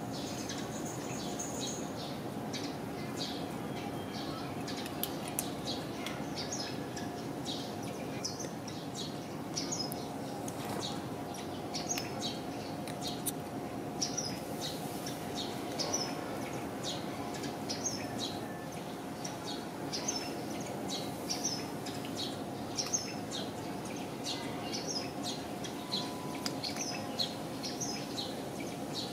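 Small birds chirping over and over in short, high notes, over a steady low background hum.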